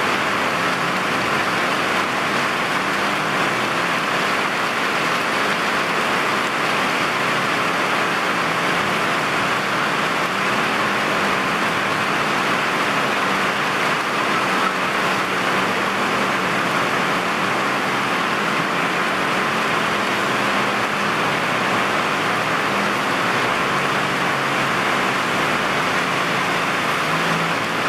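Heavy rain pouring steadily, a dense even hiss, with a low hum of road traffic underneath.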